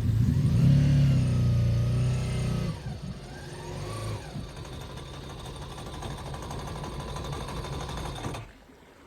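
Yamaha 1100 jet ski engine revving loudly, then easing back to run at a lower, steadier speed, before the sound stops abruptly near the end.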